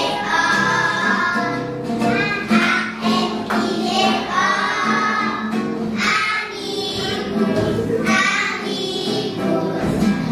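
A group of young children singing a song together with backing music.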